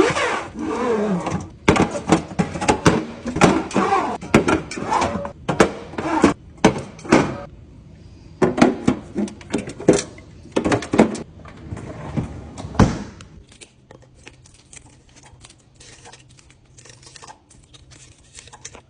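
Hands restocking a fridge: plastic containers, packets and produce being set down, clicked into place and rustled, a quick run of knocks and taps. About thirteen seconds in it turns much quieter, leaving light scattered taps.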